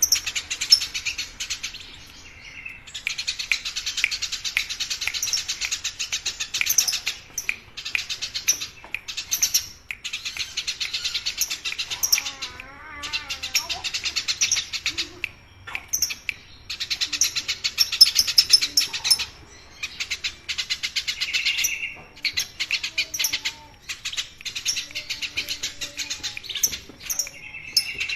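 Eurasian tree sparrows chirping: fast, continuous, chattering cheeps in long bouts of several seconds, broken by brief pauses.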